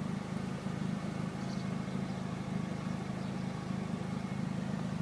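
Chevrolet Aveo petrol engine idling steadily, running again now that its repaired engine control unit is communicating and firing it.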